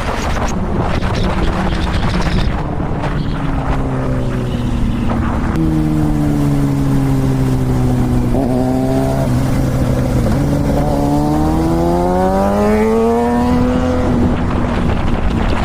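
Kawasaki ZX-6R inline-four sport-bike engine with wind rush. The engine note falls slowly as the bike slows, jumps briefly about halfway through, then climbs steadily for a few seconds as it revs up and accelerates.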